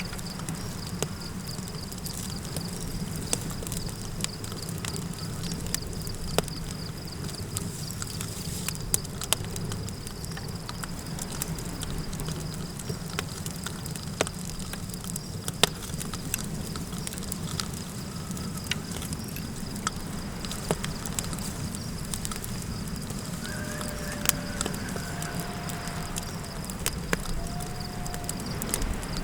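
Campfire crackling, with sharp pops scattered all through, over a steady low rush of wind and a continuous thin, high insect drone. A few faint, short wavering calls come near the end.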